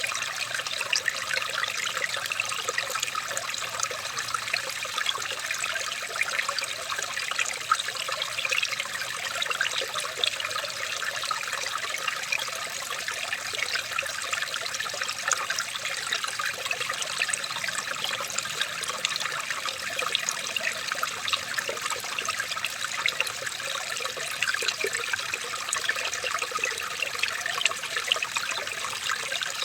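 Running water trickling and bubbling steadily without a break, like a small natural stream.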